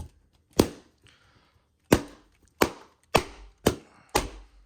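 Balloons being popped one after another: six sharp bangs, the first about half a second in, then one roughly every half second.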